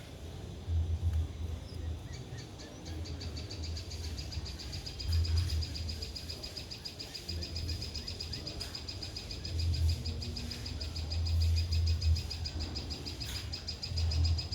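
Bird calls: a fast, even trill of high chirps starts about two seconds in and keeps going, over intermittent low rumbles.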